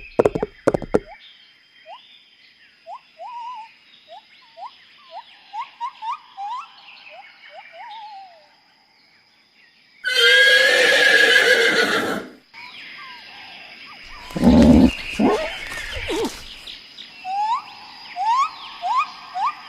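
A horse whinnies loudly for about two seconds halfway through, followed a few seconds later by a deeper, shorter call. Short rising chirps come in series before and after.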